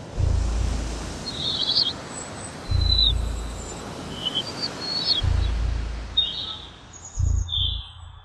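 Sound-art soundtrack: scattered short, high bird chirps over a steady wash of noise, with a deep low throb that swells and fades about every two and a half seconds.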